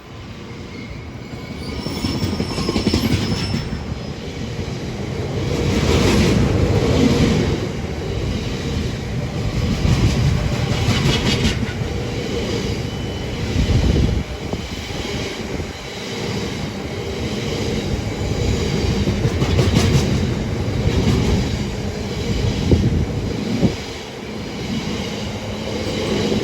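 Class 66 diesel freight locomotive, a two-stroke V12, accelerating past, with a heavy, sustained rail rumble. Wheels clatter over rail joints in repeated short knocks every couple of seconds, with some wheel squeal.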